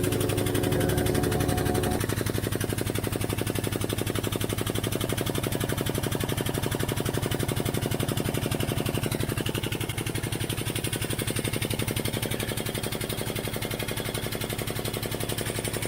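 A car jack being raised under the vehicle by a power tool, making a steady, rapid mechanical rattle of fast, even strokes.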